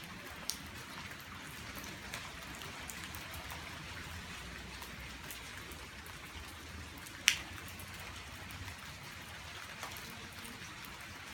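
Steady rain falling, a continuous hiss dotted with many small drop ticks. One much louder sharp tap about seven seconds in.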